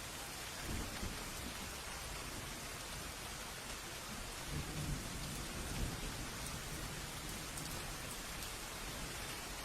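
Steady rain hissing, with low thunder rumbling briefly about a second in and again, longer, around the middle.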